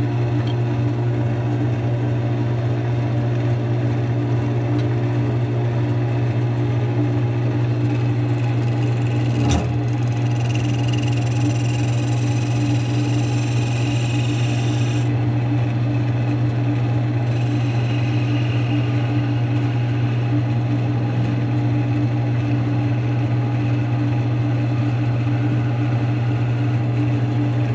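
Wood lathe running at a steady speed with a constant hum while a maple blank is cut for a pilot hole, a higher cutting hiss joining in from about 8 to 15 seconds in, with a sharp click about nine and a half seconds in.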